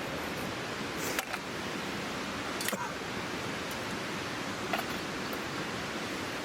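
Wood campfire crackling: a steady hiss with a few sharp pops scattered through it.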